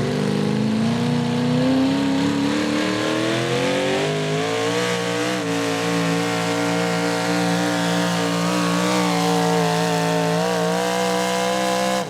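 Competition pulling vehicle's engine under load, its pitch climbing steadily for about four seconds and then held at high revs with slight wavering, stopping abruptly at the end.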